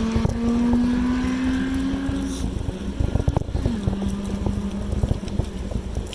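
A motor's steady hum that slowly rises in pitch, then drops back down sharply about three and a half seconds in, as a vehicle's does when it passes. Low wind rumble and rattling clicks from riding run underneath.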